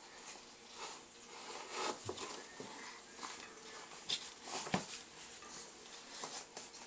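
Scattered clinks and knocks of dishes being handled in a dishwasher rack, with sharper knocks about two, four and five seconds in.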